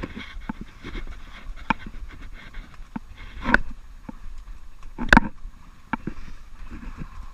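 Scattered knocks and bumps in a small dinghy over low water noise, with two louder knocks about three and a half and five seconds in.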